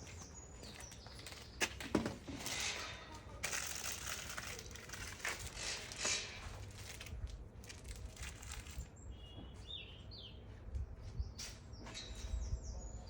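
Rustling and handling noise with a few sharp knocks in the first few seconds, and a bird chirping briefly a little past the middle.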